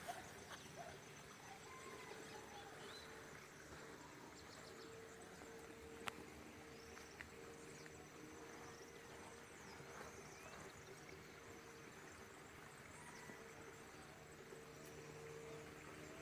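Faint woodland ambience: a steady insect drone with scattered short bird chirps, and one sharp click about six seconds in.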